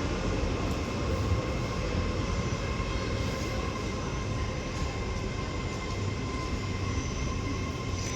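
Class 165 diesel multiple unit pulling out of the station: a steady rumble with a faint high whine.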